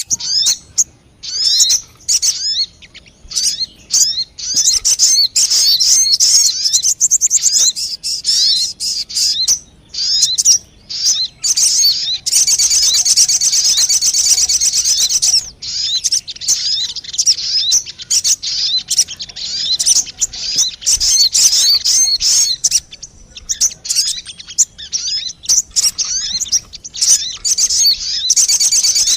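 Sogon bird calls played as a lure (pikat) recording: rapid high chirps and twittering notes, breaking into dense, unbroken fast trilling for a few seconds about halfway through and again at the very end.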